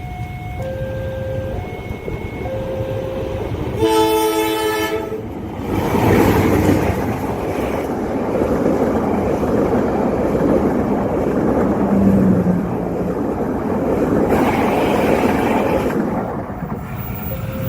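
Level-crossing warning alarm sounding alternating tones, then one train horn blast about four seconds in, followed by a passenger or freight train rushing past at speed for about ten seconds, its wheel and rail noise dominating before the crossing alarm is heard again near the end.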